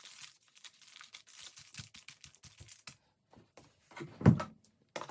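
Masking tape being peeled off the edge of a plastered canvas: a fast crackling tear lasting about three seconds, then a louder knock about four seconds in and another near the end.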